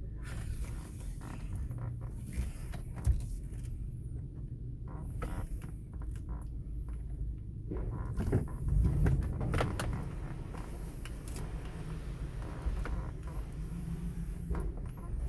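Car engine idling, heard from inside the cabin, with scattered clicks and knocks and a louder stretch of rumbling about eight to ten seconds in.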